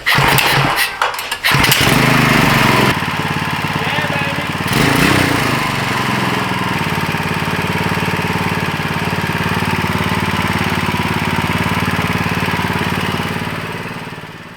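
Coleman CT200U-EX mini bike's small single-cylinder engine being fired up for the first time after the rebuild: it catches with a few uneven revs in the first seconds, revs once more, then settles into a steady idle that fades out near the end.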